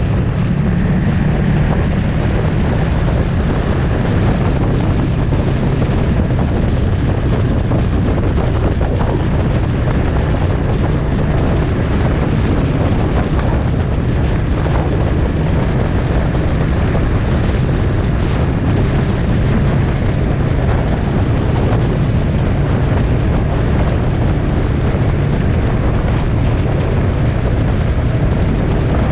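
Motorcycle engine running steadily at cruising speed, with heavy wind noise on the microphone.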